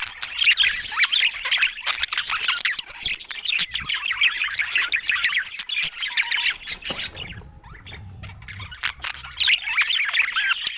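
Budgerigars chattering with rapid warbling calls. The calls pause for about two seconds past the middle, then resume.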